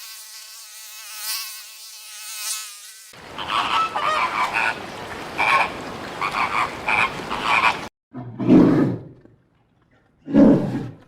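A sequence of animal sounds: a wavering, buzzing drone for about three seconds, then a string of short, repeated calls, then two loud, deep croaking calls near the end.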